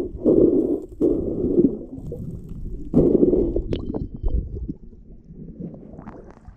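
Muffled water sloshing and gurgling around a camera in a waterproof housing or underwater, in surges near the start, about a second in and about three seconds in, then dying down.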